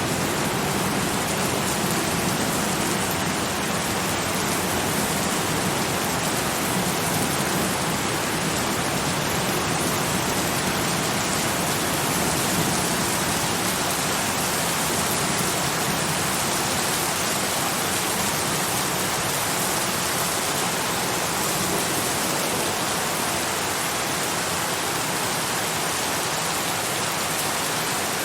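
Steady, even rain falling, a constant hiss without a break.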